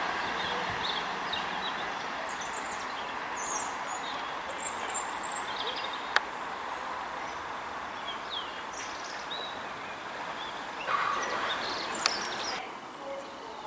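A CrossCountry Voyager diesel unit fading away into a tunnel, its rumble dying down to a steady hiss while small birds chirp. There are two sharp clicks, one about halfway through and one near the end.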